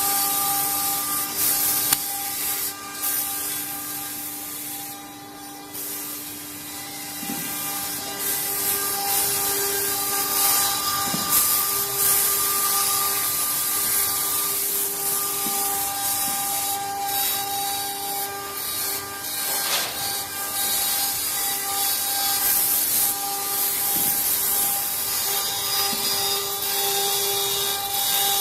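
CNC wood engraving machine cutting wood: the rasp of the bit in the wood over a steady motor whine made of several tones that come and go as the machine moves.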